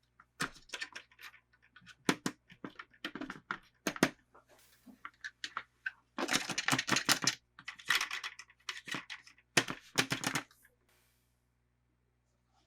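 Hands handling toy packaging and plastic doll parts: irregular clicks and taps, with two stretches of packaging crinkling about six and eight seconds in.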